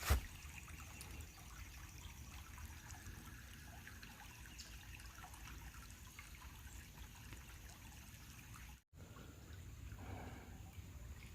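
Faint outdoor ambience with a soft, steady trickle of running water, with a single knock right at the start and a brief dead gap near the end.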